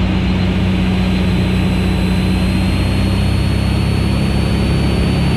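Van's RV-8's piston engine and propeller droning steadily in the cockpit, throttled back for the landing approach. A thin high whine runs over the drone and creeps slightly up in pitch.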